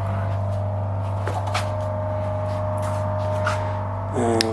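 Harley-Davidson Breakout's 1690 cc V-twin idling steadily through Vance and Hines big radius pipes, a constant low hum.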